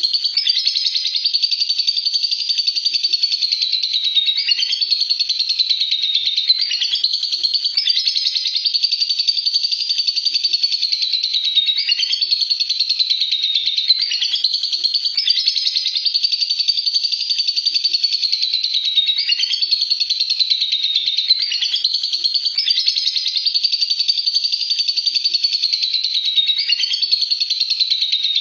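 Lovebird giving a long, unbroken ngekek: a fast, high-pitched chatter that runs on without a pause for breath, in repeated sweeping phrases that dip every second or two.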